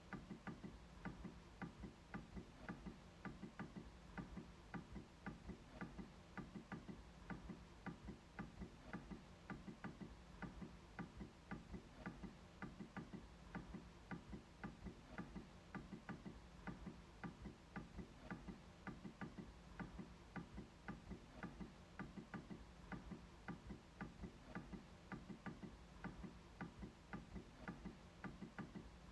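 MacBook trackpad being clicked over and over, about three quiet clicks a second at an even pace.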